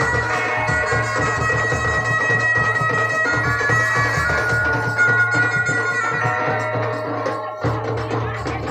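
Music led by a loud, reedy double-reed wind instrument holding long melody notes over a steady low drone, with drums beating throughout.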